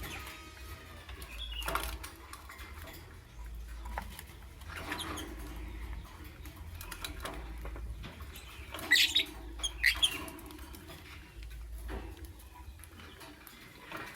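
Pet lovebird giving a few short, sharp chirps, the loudest pair about nine and ten seconds in, amid light scratching and pattering of movement, over a low hum.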